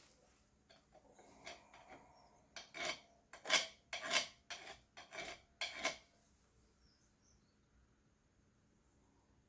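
A run of about eight rough scraping strokes over some five seconds, then they stop.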